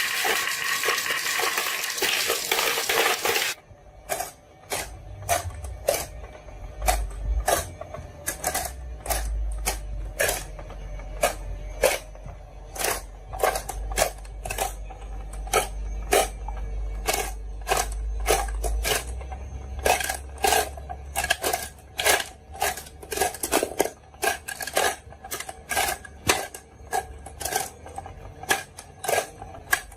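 Marbles rolling and clacking along a marble run: many irregular sharp clicks and knocks, with a low rolling rumble through the middle. In the first few seconds a noisy rushing sound plays, then cuts off abruptly.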